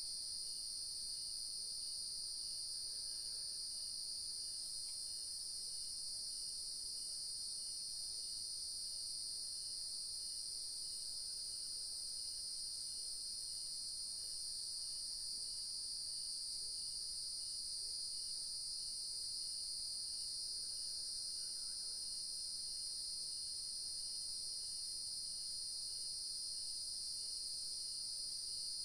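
Steady, high-pitched chorus of night insects, crickets among them, droning without a break. Beneath it a fainter chirp repeats at an even pace.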